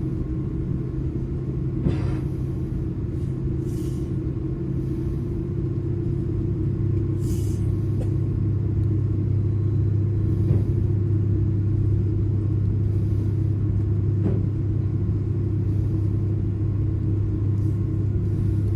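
Steady engine rumble and low hum of a passenger airliner heard from inside the cabin, as the plane readies for take-off. It grows a little louder about six seconds in, with a few faint knocks along the way.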